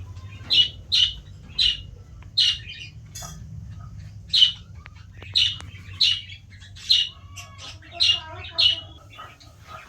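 A bird calling over and over, short loud calls about once a second with fainter chirps between them, over a steady low hum.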